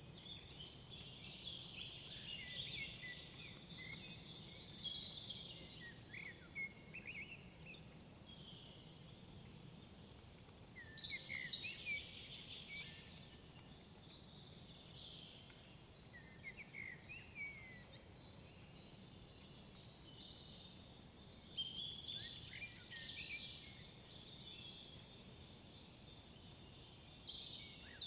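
Songbirds singing in woodland: about four bouts of quick chirps and trills, each a few seconds long with short pauses between, over a steady low background rumble.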